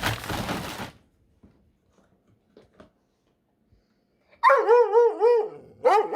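Cardboard and packaging rustling, which stops about a second in. Then, after a pause, a dog gives a loud warbling, wavering howl-like bark lasting about a second, and another short one near the end.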